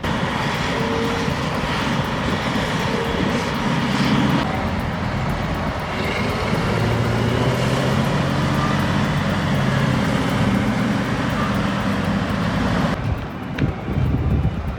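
Heavy log-handling machinery running, with a steady diesel-engine drone under a dense mechanical din. The sound changes abruptly about four seconds in and again near the end.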